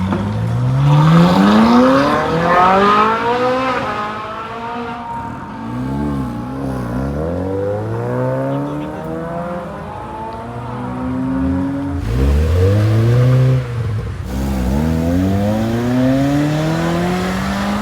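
Car engines revving hard, their pitch climbing in long sweeps several times, with quick wavering blips in between and one sudden drop in pitch partway through.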